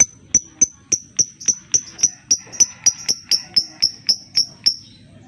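Lovebird giving its 'ngetik' ticking call: a fast, even run of about eighteen sharp, high ticks, roughly four a second, that stops shortly before the end.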